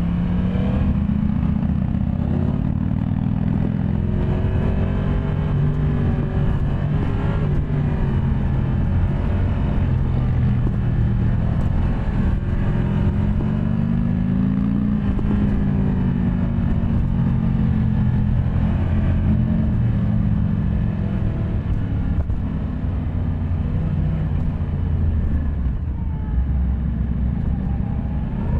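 Yamaha MT-10 SP's crossplane inline-four engine running under way, its revs rising and falling over and over as the bike is ridden.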